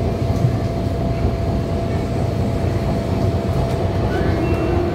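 MTR Disneyland Resort Line train running, a steady low rumble of wheels on track with a thin steady tone riding over it.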